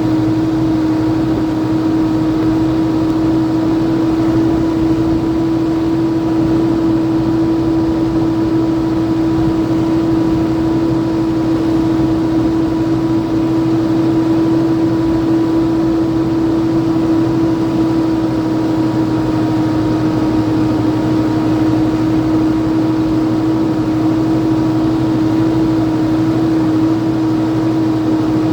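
An engine running steadily at a constant pitch, with an unchanging hum.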